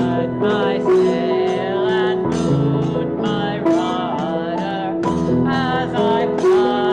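A hymn being sung, a voice carrying a slow melody over instrumental accompaniment.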